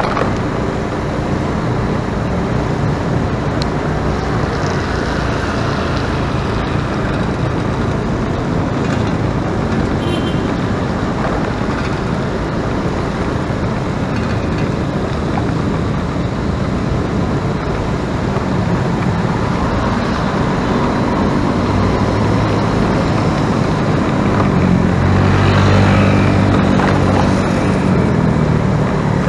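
A motor engine running steadily among road noise, its low hum growing louder in the last third.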